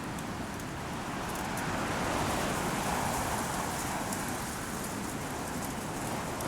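Strong wind blowing through stiff-branched Teide broom (retama) bushes, the branches and leaves rustling with faint scattered clicks. The gust swells about two seconds in and eases a little after.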